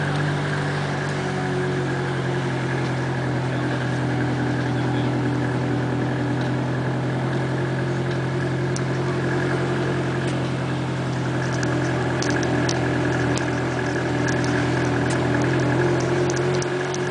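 Car engine running steadily at idle, a constant hum with no change in pitch. Faint light ticks come in during the second half.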